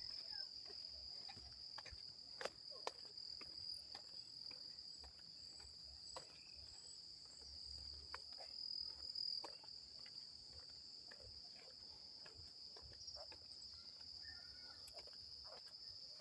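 Crickets chirring in one steady, high, unbroken trill, faint, with scattered soft clicks.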